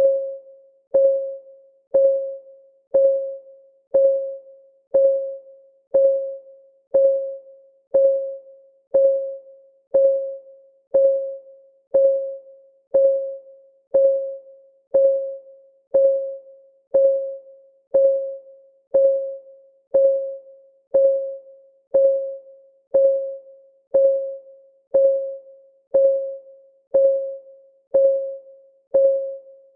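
Clock-ticking sound of a countdown timer, one tick a second. Each tick is a sharp click with a short mid-pitched ring that fades quickly.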